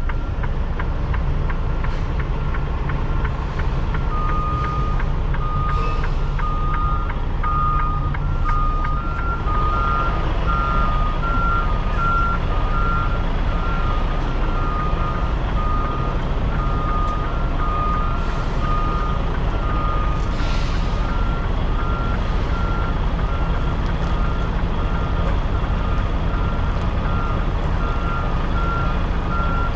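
A semi-truck's diesel engine runs with a steady low rumble while the rig reverses. A few seconds in, backup alarms start beeping about once a second, and a second alarm at a slightly higher pitch joins soon after.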